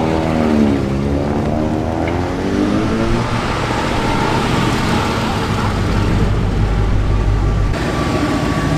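Vehicle engines running: the pitch wavers in the first second or so, then settles into a steady rumble.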